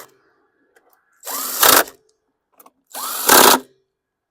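Power drill/driver running twice in short bursts, each spinning up with a rising whine and getting louder near the end. The pattern fits driving sheet-metal screws home with an 8 mm socket bit.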